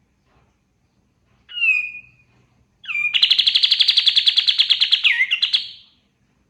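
Kapas tembak songbird singing: a short down-slurred call, then about a second later a fast, loud trill of around eleven notes a second lasting nearly three seconds, ending in a dipping note.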